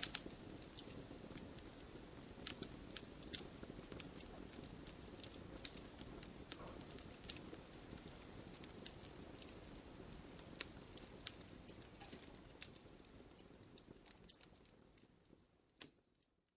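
Fire crackling in a fireplace: irregular sharp pops and snaps over a soft, steady rush of burning. The sound fades out over the last couple of seconds.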